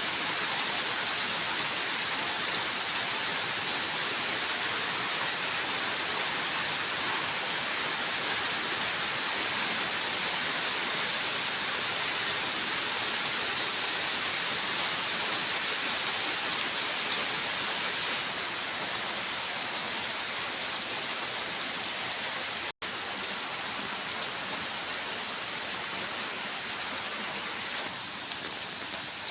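Steady heavy rain: a dense, even hiss of rainfall. It breaks off for an instant about 23 seconds in, and eases slightly near the end.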